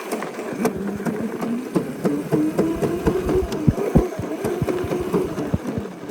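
Small dirt bike engine running, its pitch wavering up and down, with frequent short knocks and bumps throughout.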